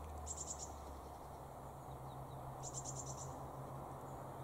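Two brief, high-pitched trills from a small songbird, one early and one about three seconds in, over a faint steady low hum.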